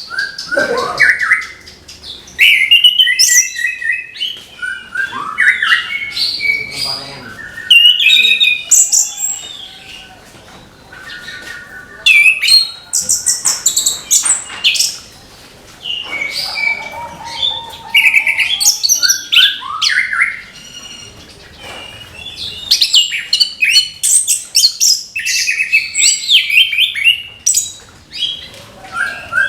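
Orange-headed thrush (anis kembang) singing a long, varied song of quick whistled phrases and trills, with a quieter lull about ten seconds in.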